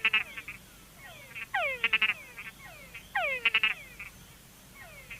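Túngara (mud-puddle) frog giving complex calls: a downward-sweeping whine followed by short chucks, repeated about three times at roughly one-and-a-half-second intervals. This whine-plus-chuck call is the one that attracts both female frogs and the frog-eating bat.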